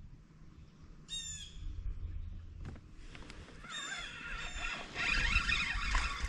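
Bird calls: one short, harsh, falling call about a second in, then a run of chattering calls through the second half, over a rising wash of noise near the end.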